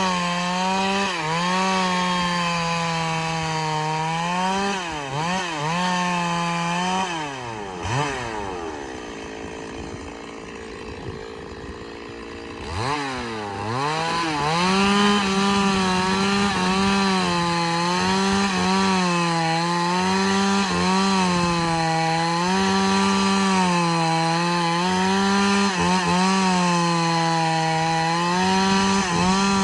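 Two-stroke chainsaw ripping through a large log, its engine note wavering under load. About eight seconds in the revs fall away to a low idle, then the throttle opens again and it runs back up to full speed and carries on cutting.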